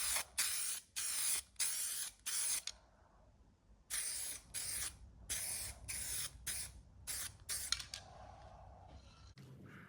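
Short bursts of spray dusting a very light coat of primer over repaired spots, a quick run of half-second hisses with a brief pause about three seconds in. The bursts stop about eight seconds in.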